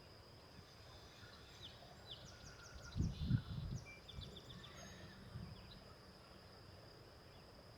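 Outdoor meadow ambience: a steady high insect drone with a run of small bird chirps about two to four seconds in. A brief low rumble, the loudest thing, comes about three seconds in.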